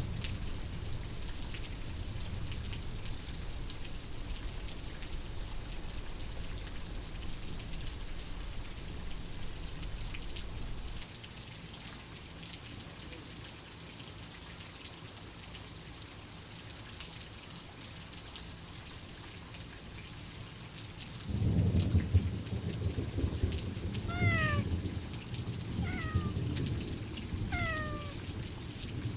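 Steady rain with rolling thunder. The low rumble fades about a third of the way in and returns, louder, about three-quarters through. Near the end a cat meows three times, each a short call falling in pitch.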